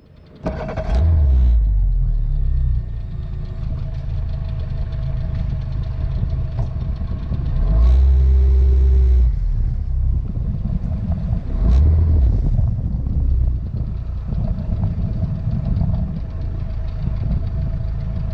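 An engine running steadily with a heavy low rumble, broken by loud low thumps about a second in, around eight seconds and near twelve seconds.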